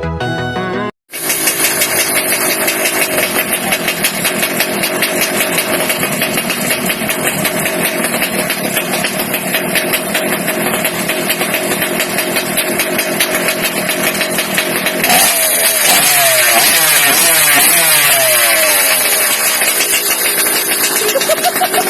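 Evo stand-up scooter's small two-stroke engine running through an RF expansion-chamber pipe, steady at first, then revved up and down again and again through the last third. A music intro ends about a second in.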